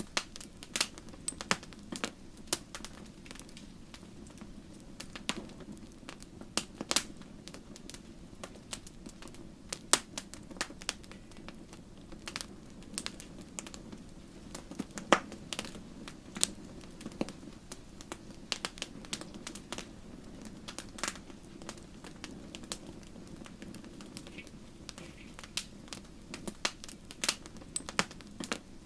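Wood logs crackling and popping in a fireplace: irregular sharp snaps, a few louder pops among many small ones, over a steady low sound of the fire.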